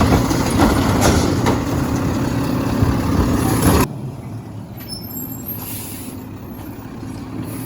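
Garbage truck engine running, with hiss and a few short knocks; the sound drops sharply about four seconds in, leaving a quieter steady engine.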